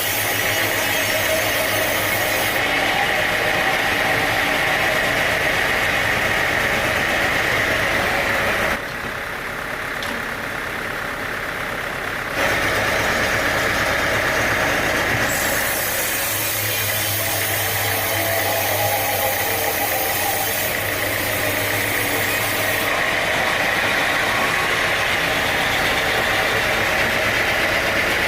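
Engine-driven sawmill machinery running steadily, a continuous engine hum with a high whine on top. It changes abruptly about nine seconds in, dropping quieter and duller, and jumps back about three and a half seconds later.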